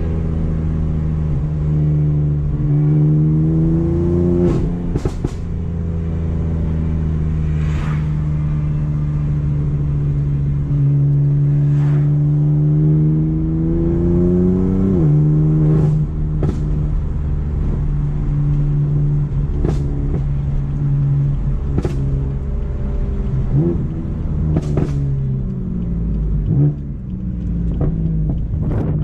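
BMW M4 with a decatted, straight-piped Akrapovic exhaust, its twin-turbo straight-six pulling through the gears. The engine note climbs slowly, then drops at upshifts about four seconds in, again around the middle, and twice near the end. Sharp cracks come through every few seconds.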